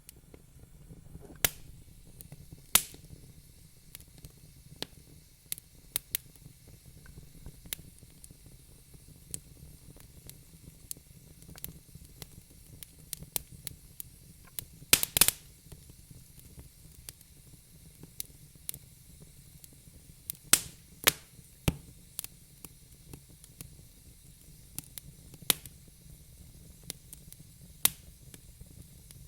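Wood fire in a fireplace crackling, with sharp pops at irregular intervals over a low steady rumble. The loudest pops come in a quick cluster about halfway through and as two more a little later.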